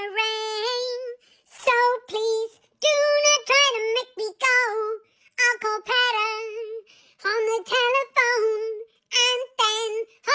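High-pitched wordless singing with a wavering pitch, in a string of short phrases separated by brief gaps.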